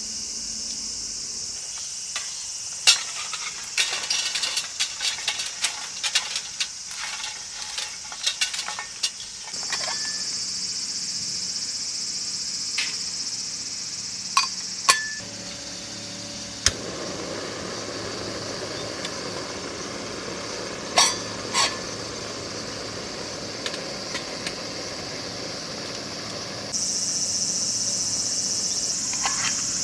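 Crickets chirping steadily in a high, continuous chorus. Scattered sharp clicks and knocks sound over it, many in the first third and a few more later.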